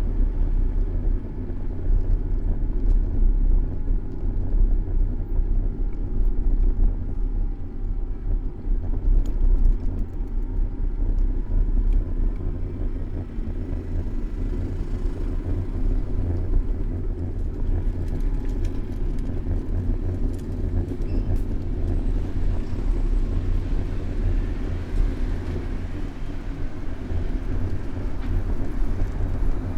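City street traffic heard from a camera mounted on a moving bicycle: a steady low rumble of passing motor vehicles, road and ride noise, with a faint drifting whine of engines.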